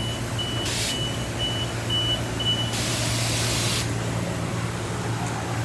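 Self-serve car wash pressure-washer wand spraying in short bursts over the steady low hum of the wash equipment. A high beep repeats about twice a second and stops a little over two and a half seconds in.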